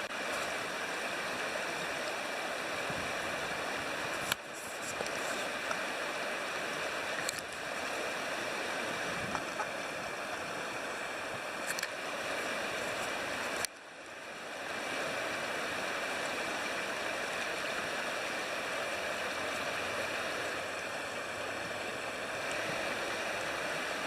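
Steady rush of flowing river water, with a few sharp crackles from a wood campfire.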